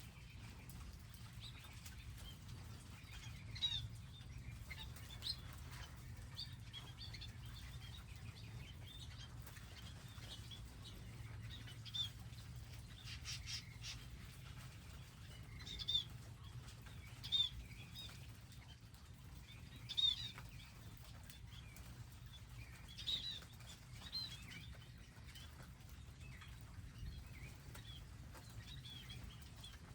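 Small wild birds at garden feeders giving short, scattered chirps every few seconds, over a faint steady low rumble.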